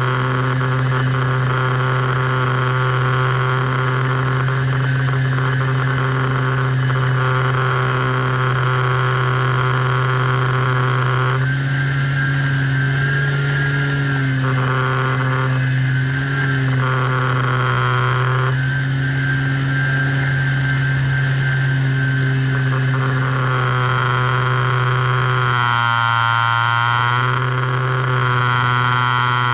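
A steady hum made of several held tones that keeps going throughout, with a higher tone switching on and off every few seconds, heard on the FPV aircraft's audio feed.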